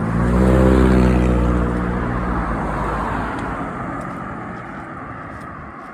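A motor vehicle passing close by on the road. Its engine hum is loudest about a second in, then its tyre noise fades away as it drives off.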